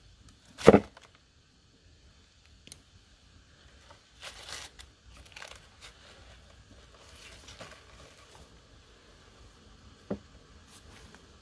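Handling noises: a single loud, sharp tearing crack about a second in, then intermittent rustling and crinkling, and a sharp click near the end.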